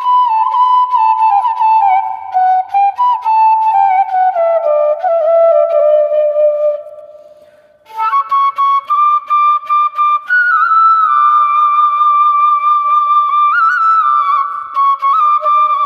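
Solo flute melody played as a ringtone tune: a phrase that steps downward, fades away for about a second just past the middle, then returns with higher, long-held notes.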